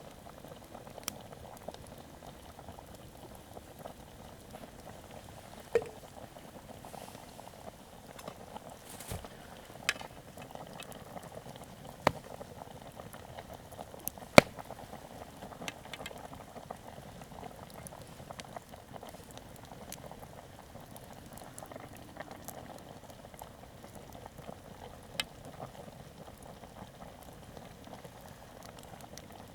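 A pot boiling over a campfire: steady bubbling throughout, with a handful of sharp pops or clicks scattered through it, the loudest about halfway through.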